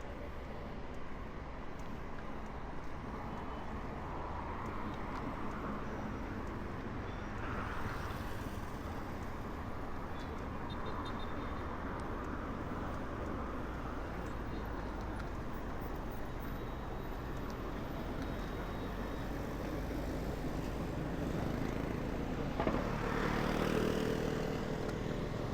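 Steady street traffic noise from riding through city traffic, with vehicles passing. Near the end a louder vehicle engine passes close by.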